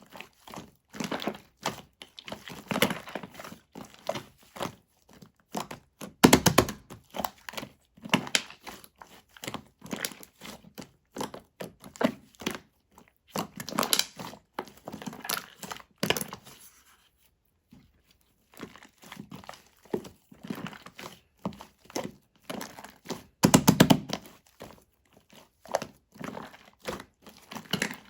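Yellow shaving-foam slime being squeezed and pressed by hand, giving dense irregular crinkly crackles and soft thunks. The crackling stops briefly about two-thirds of the way through, then resumes.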